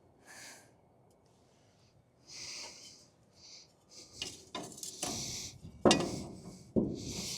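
Hand tools knocking and clinking on metal while a stuck shock-absorber bolt is worked loose, with several short hissing bursts and a few sharp knocks, the loudest about six seconds in.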